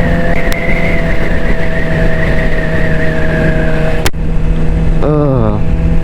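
Suzuki GSX-R600 inline-four sportbike engine running at a steady speed, with wind noise on the helmet microphone. A sharp click comes about four seconds in, and the engine pitch falls briefly about a second later.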